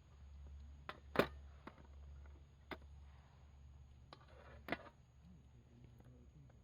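A few sharp clicks and knocks, the loudest about a second in and another just before the five-second mark, over a low steady hum.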